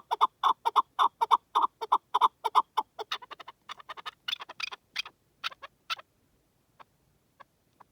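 Chukar partridge calling: a rapid series of sharp, clipped notes, about four a second, that grows sparser and stops about six seconds in, followed by a few faint single notes.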